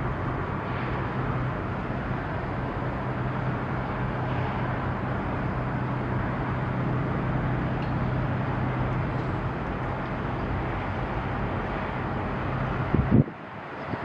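Steady low engine drone with wind noise around it. Near the end a brief loud thump comes, and then the drone stops.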